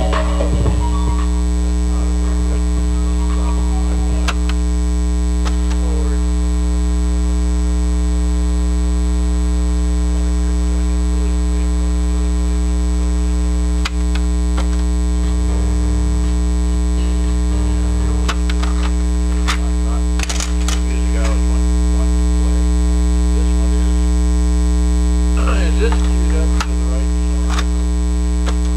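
Loud, steady electrical mains hum with a buzzy stack of overtones, the bad sound of an electrical hum fault in the audio signal. A few faint clicks come now and then.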